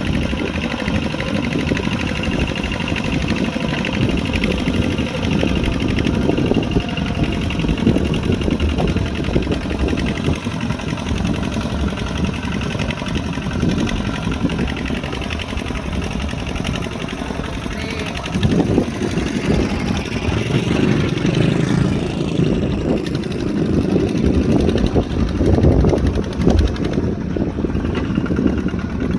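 Kubota RT140 Plus single-cylinder diesel engine running steadily under plowing load, with a fast, even chug. It grows somewhat louder in the second half.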